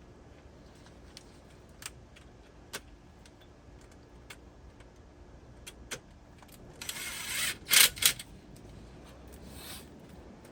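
Small scattered clicks of metal parts and tools being handled, then a loud, brief metallic rattle and clatter about seven seconds in, with two sharp knocks, and a softer rustle shortly after.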